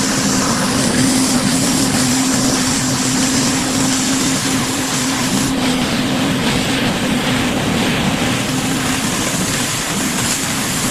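Pressure washer running, with a steady engine or pump hum under the broad, even hiss of high-pressure water spraying concrete.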